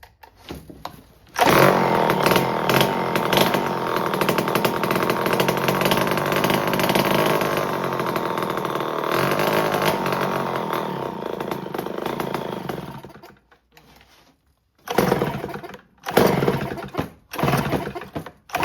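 Homelite C5 two-stroke chainsaw engine firing and running for about ten seconds on a primed shot of fuel, then fading out and dying. Several short bursts follow near the end. It will not keep running on its own, which the owner puts down to the carburetor and later cures with a new carb diaphragm.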